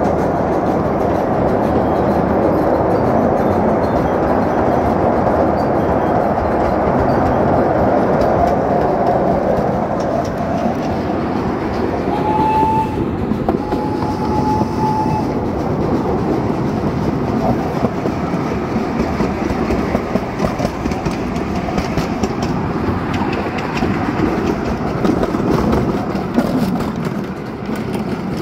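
Steady rumble and clatter of a small amusement-park train's wheels on the track, heard from aboard the car, with two short whistle toots about halfway through.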